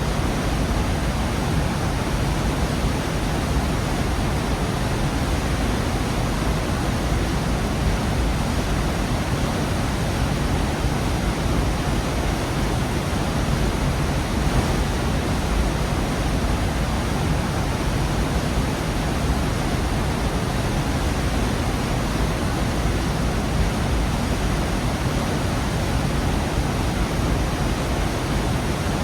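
Waterfall in a rocky gorge: a steady, unbroken rush of falling water, deep and full.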